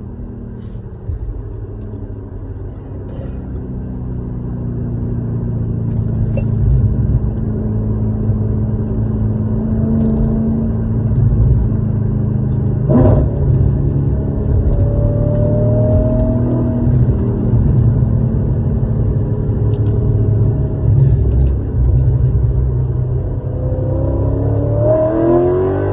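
Audi RS5's 4.2 V8 with catless headers droning inside the cabin while driving, growing louder over the first several seconds. One sharp crack about halfway through, and near the end the revs rise quickly.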